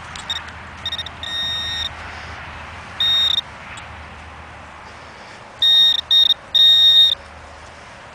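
A metal-detecting pinpointer probe buzzing in short blips and longer bursts of one steady high tone as it is worked over a buried metal target in the dug hole. The target is an old button.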